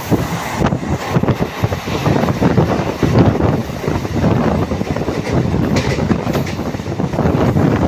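Indian Railways train running on the rails, its wheels clattering steadily, with wind buffeting the microphone.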